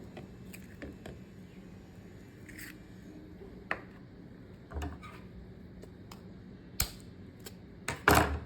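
Eggs being cracked by hand with some fumbling: irregular light taps and clicks of shell, with a sharper knock near the end.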